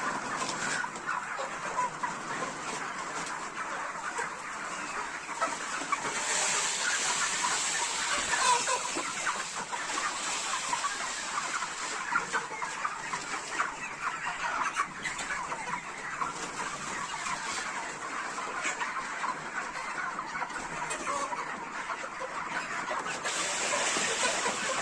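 A large flock of broiler chickens, about 40 days old, clucking continuously: a dense chatter of many overlapping calls over a steady high hiss.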